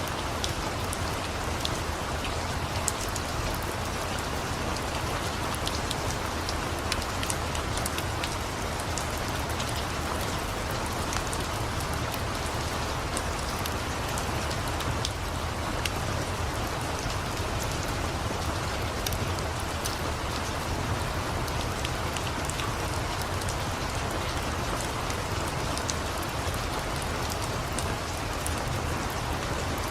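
Steady rain hissing, mixed with a crackling fireplace: an even wash of noise over a low rumble, dotted with many small sharp pops and ticks.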